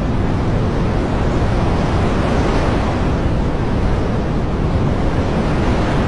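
Heavy rain falling as a dense, steady rushing noise, even in loudness with no swells.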